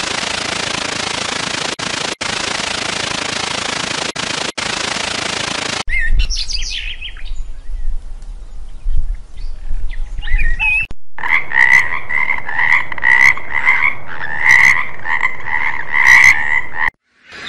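A steady rushing noise for about six seconds, then a quieter stretch, then a frog calling: short, rasping croaks repeated about twice a second for the last six seconds.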